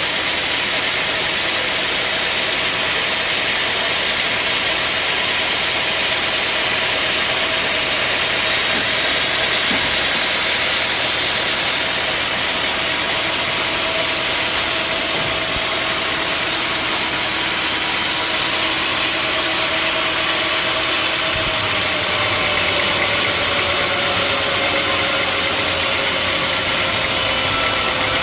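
Sawmill machinery running steadily: a loud, even mechanical noise with a held tone that sinks slightly in pitch after about twenty seconds.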